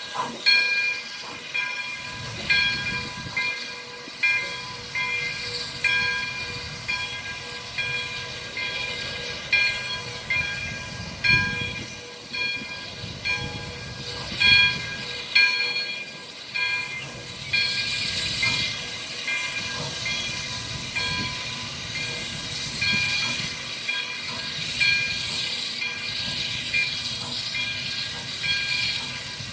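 Steam locomotive No. 3415 passing slowly, its bell ringing repeatedly about once or twice a second over hissing steam and a low rumble.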